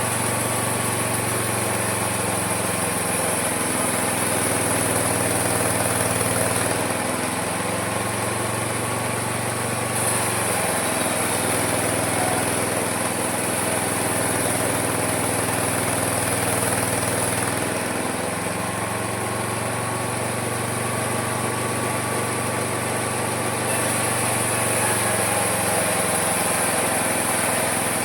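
Homemade mini sawmill running steadily while its blade cuts through a log. The motor's pitch sags and recovers several times as the blade takes load in the wood, over a steady high whine.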